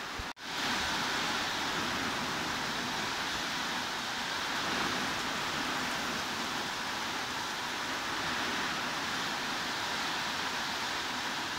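Steady heavy rain, an even hiss with no distinct drops. It cuts out for a split second near the start, then carries on unchanged.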